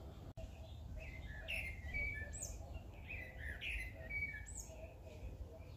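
Birds chirping: a run of short, high calls, some sliding down in pitch, over a low, steady background rumble.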